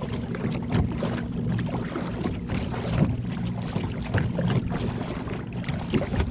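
A small boat's motor running steadily, with gusty wind on the microphone and a few light knocks.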